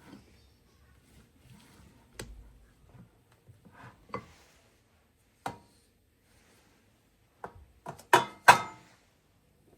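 Scattered knocks and clinks of kitchen utensils and dishes being handled and set down, the loudest two close together near the end with a brief ring.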